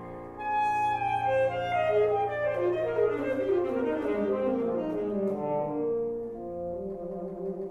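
Saxophone and piano playing a fast run of short notes that falls steadily from high to low over several seconds, above a held low bass note that stops near the end, where the line begins to climb again.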